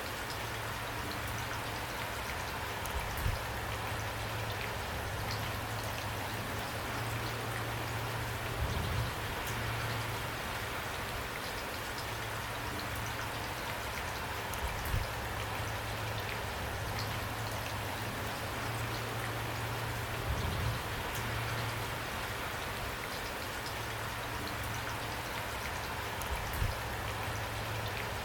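Steady rain falling, with scattered drops ticking on a surface and a short low thud about every five to six seconds.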